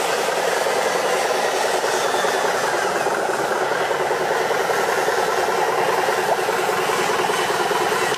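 Radio-controlled trucks' electric motors and gearboxes running steadily.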